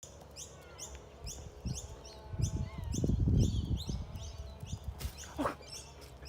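A small bird chirping over and over, short high chirps about two to three a second, with a louder low rumble in the middle.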